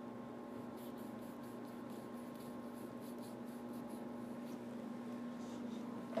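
Paintbrush strokes swishing over a painted backdrop, a quick run of short strokes about three or four a second, then a few more near the end, over a steady low hum.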